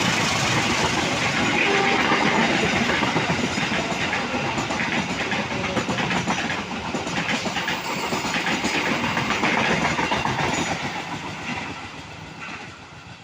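A train passing close by, its wheels clattering rhythmically over the rail joints, the sound fading away over the last few seconds.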